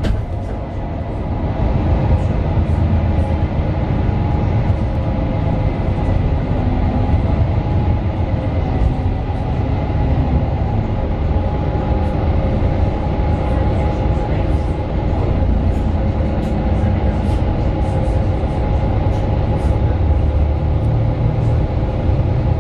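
Mercedes-Benz Citaro 2 city bus under way, heard from inside the cabin: the OM 936 diesel engine and ZF Ecolife automatic driveline running steadily with a deep rumble, with small rattling ticks from the body now and then.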